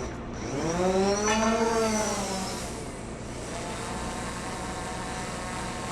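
A car engine revving once: its pitch climbs quickly, holds briefly and eases back down, then settles into a steady running hum.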